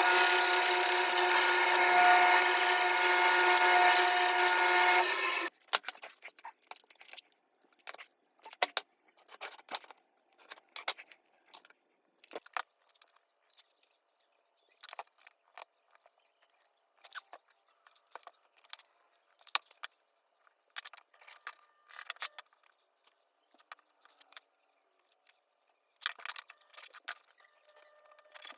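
A woodworking power tool running steadily with a whine, cutting off suddenly about five seconds in. Scattered light clicks and taps follow.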